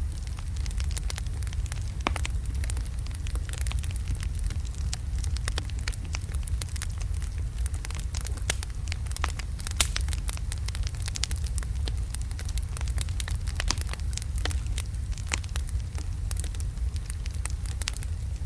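Wood fire of large logs burning in a fireplace: a steady low rumble of flame with many sharp crackles and pops, one louder pop about ten seconds in.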